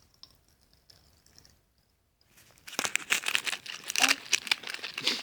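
A packet of popping candy crinkling as it is handled, a dense, loud crackling that starts about two and a half seconds in after a quiet start.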